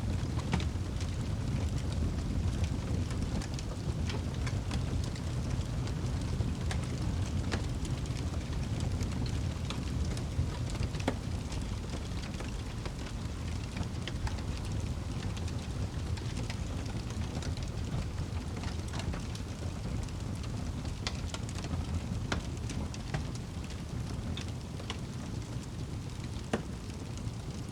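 Wood fire burning in a fireplace: a steady low rumble with frequent sharp crackles and pops at irregular intervals.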